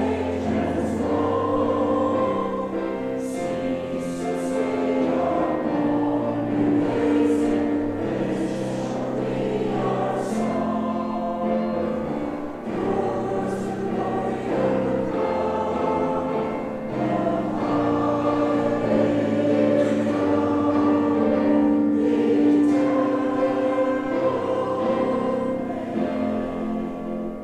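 A choir singing a hymn, with sustained notes and the sound easing off near the end.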